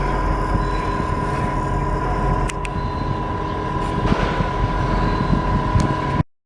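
Steady loud machinery noise with a constant high-pitched tone over a low hum, and a few sharp clicks; it cuts off suddenly near the end.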